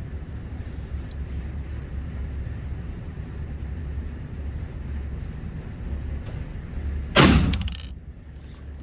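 A single gunshot about seven seconds in, a sharp crack with a short ringing tail, over a steady low rumble.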